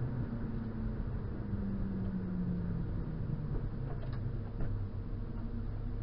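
Rally car engine running at low revs, heard from inside the cabin as the car creeps along, with a slight rise and fall in pitch about two seconds in.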